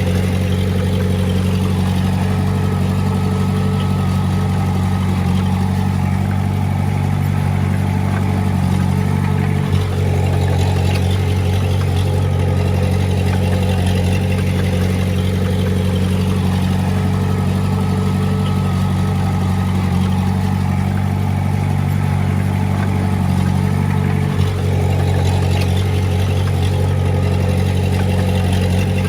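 Diesel engine of heavy earthmoving equipment running steadily, with light clatter and small changes in engine note. Two short knocks stand out, one about ten seconds in and another about two-thirds of the way through.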